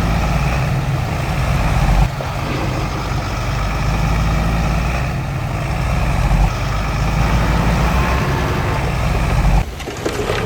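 Heavy earthmoving machinery's diesel engine running steadily, cutting off abruptly near the end.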